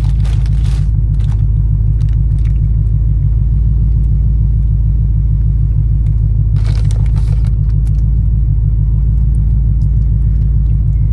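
Car engine idling with a steady low rumble, heard from inside the cabin. A grape jelly packet is torn and rustled at the start and again about seven seconds in.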